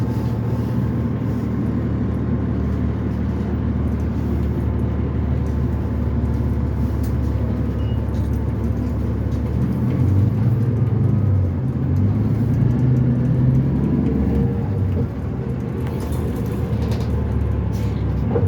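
Cummins ISL inline-six diesel of a 2005 New Flyer D40LF transit bus running under way, a steady low rumble. About ten seconds in the engine note grows louder and shifts in pitch as the bus pulls, with a few short clicks near the end.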